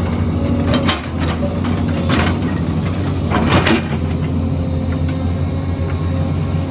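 Excavator's diesel engine running steadily, with several short, higher-pitched scraping sounds from the machine working, the longest about three and a half seconds in.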